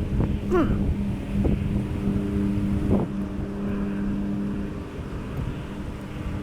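Honeybees buzzing around an opened hive: a steady drone of many wings, with single bees flying close past the microphone about half a second in and again around three seconds, their pitch sweeping as they pass. Wind rumbles on the microphone underneath.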